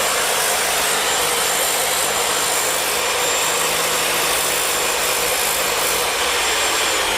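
Steel being worked on a homemade steel wood stove: a loud, steady hissing noise that cuts off suddenly near the end.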